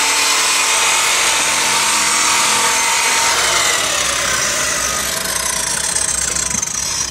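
Power grinder running steadily against fiberglass, a loud whirring grind whose pitch sinks slowly over the last few seconds.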